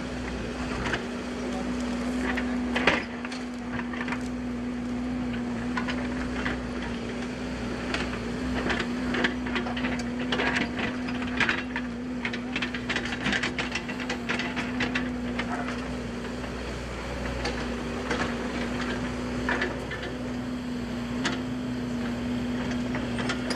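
Irregular crackles and sharp snaps over a steady low hum, the snapping densest around the middle.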